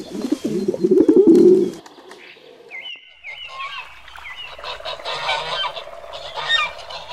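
A pigeon cooing in low, wavering notes for the first couple of seconds, then stopping. After a short pause, geese begin honking and calling, continuing to the end.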